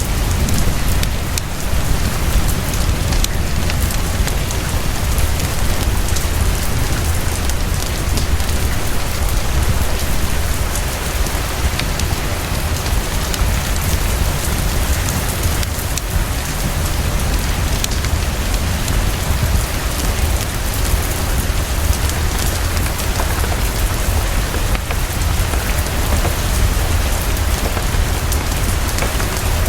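Heavy, fast rain falling steadily, with a constant deep rumble underneath and scattered small sharp ticks.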